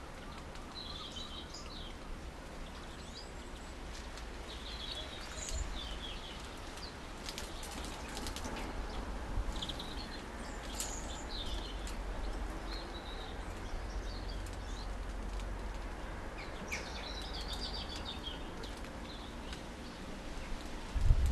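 Small garden finches calling at a feeder: short, scattered chirps and twitters throughout, over a steady low rumble, with a few brief clicks in the middle.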